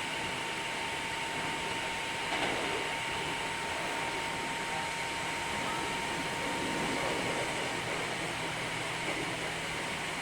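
Hankyu 3300 series electric train running between stations, heard from inside the passenger car: a steady rumble of wheels and running gear with a thin, steady whine.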